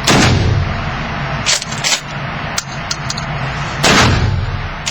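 Two shotgun blasts about four seconds apart, each ringing out with a long echo, with two short sharp clacks between them.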